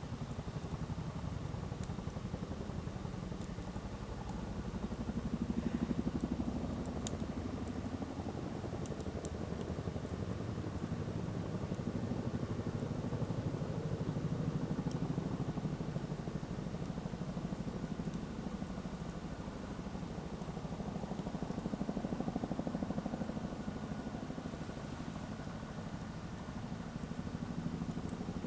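Wood campfire burning with a steady low roar. A few sharp crackles and pops from the wood come through it.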